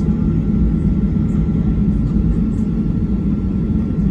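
Steady low rumble of a Boeing 737-800 parked after landing, heard from the cabin, with a faint steady whine above it and a few light ticks.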